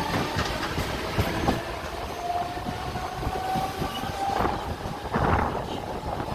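Mumbai suburban local train running between stations, heard from inside the coach: steady rumble with wheels clattering over the rail joints and a faint whine that rises slightly in pitch midway.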